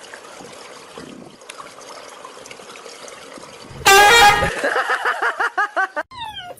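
Faint background noise, then, about four seconds in, a loud honk lasting under a second, followed by a quick run of short pitched calls and a few brief falling squeaks.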